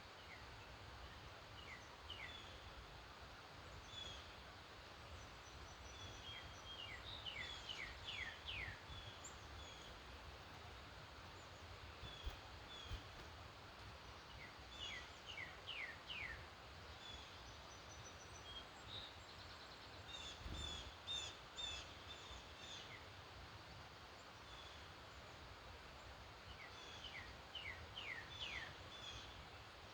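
Several songbirds singing faintly in an early-morning chorus. One song, a quick run of downward-slurred notes, comes back about every seven seconds, with higher chirps from other birds in between. A steady low rumble runs underneath.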